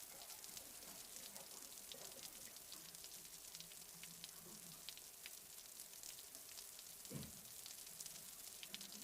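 Food sizzling in a hot frying pan: a faint, steady hiss with fine crackles. There is a soft knock about seven seconds in.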